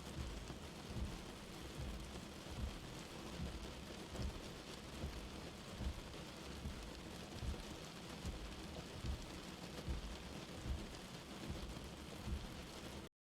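Light rain falling steadily, an even patter with irregular soft low thumps underneath. The sound cuts out briefly at the very end.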